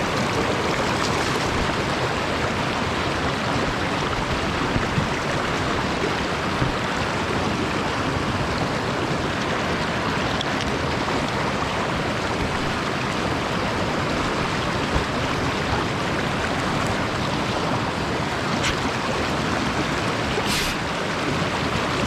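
Steady rush of a mountain stream running over stones, with a few faint clicks and splashes.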